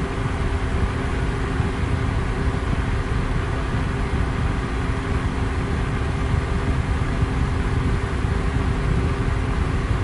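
Electric fan running steadily at high speed: an even rush of air with a low, steady motor hum beneath it.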